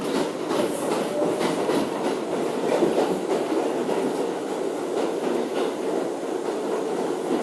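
R62A subway train running on the 7 line, wheels clacking over rail joints under a steady rumble, with a run of sharp clicks in the first few seconds.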